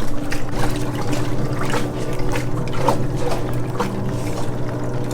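Water trickling and sloshing in a hydrotherapy pool, with a steady low hum underneath.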